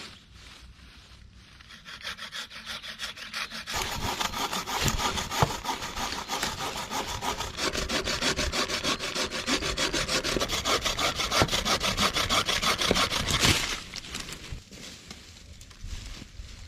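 Hand saw cutting through wood in a steady run of back-and-forth strokes. It starts lightly about two seconds in, cuts harder from about four seconds, and stops suddenly a few seconds before the end.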